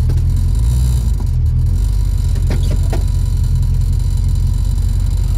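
Ford Mustang engine running while the car drives slowly, a steady low drone heard from inside the cabin, with a few short clicks about halfway through.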